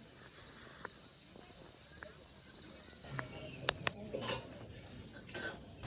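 Crickets chirring, a steady high-pitched trill; the strongest trill breaks off about two-thirds of the way through. A few faint clicks are scattered through it.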